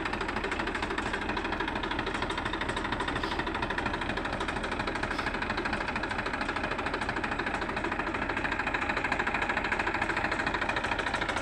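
Massey Ferguson 241 DI tractor's three-cylinder diesel engine running steadily with an even, rapid diesel knock, growing slightly louder near the end.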